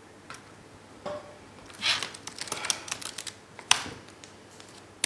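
Typing on a MacBook laptop keyboard: a few scattered key clicks, then a quick run of clicks about two seconds in, ending in one sharper tap.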